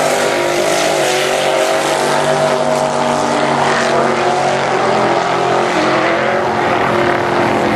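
A vehicle engine running at high, steady revs, its pitch holding with small shifts about a second and five seconds in, over a steady rush of wind and road noise.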